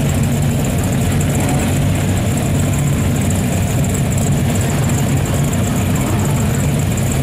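Car engine idling, a steady low, even sound with no revving or change in pitch.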